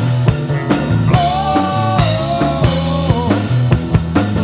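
Live rock band playing a rock-and-roll number between sung lines: drum kit beat with bass drum and snare hits under a bass line, and a long held lead note that bends in pitch for about two seconds.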